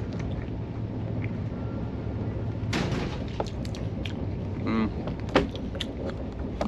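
Steady low rumble of a moving sleeper train heard from inside the compartment, with a burst of noise about three seconds in and one sharp click a little past five seconds.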